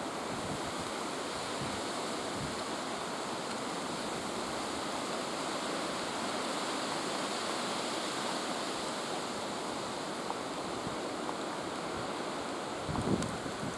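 Steady rushing noise of a ChS4 electric locomotive and its passenger coaches rolling along the rails as the train approaches. A few gusts of wind buffet the microphone near the end.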